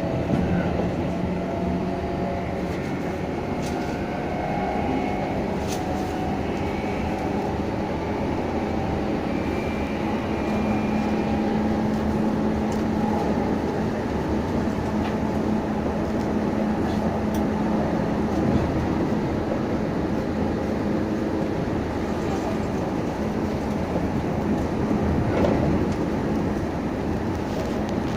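Interior running sound of a Meitetsu 6500 series electric multiple unit: the steady rumble of wheels on rail with a faint steady hum, heard from inside the passenger car.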